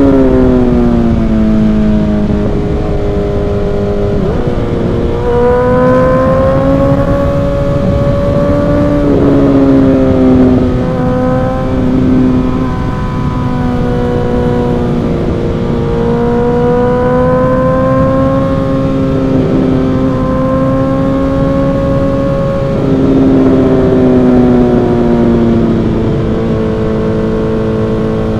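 Suzuki GSX-R1000 inline-four with an M4 aftermarket exhaust, heard on board while riding: the engine note falls as it slows near the start, then climbs and steps back in pitch several times as it accelerates through the gears, with another drop in pitch about three-quarters of the way through. A steady low rush sits underneath.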